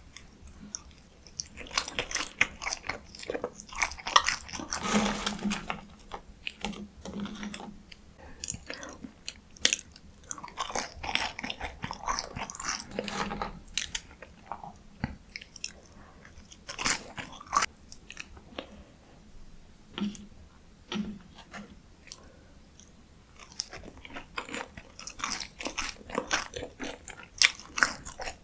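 Close-miked eating: bites and chewing with crisp crunching and wet mouth sounds, coming in irregular bursts.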